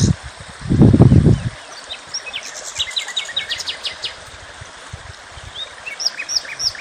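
Small birds chirping outdoors in quick series of short high notes and trills. About a second in, a loud low rumble hits the microphone briefly.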